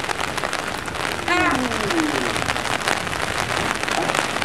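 Steady rain falling, with many small drop impacts pattering on hard surfaces. About a second in, a person's voice gives a short exclamation that falls in pitch.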